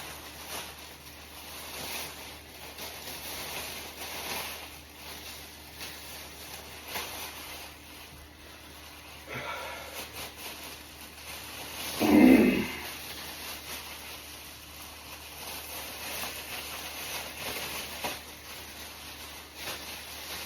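Plastic rain gear rustling and crinkling as it is handled. About twelve seconds in there is one brief, louder sound that slides down in pitch.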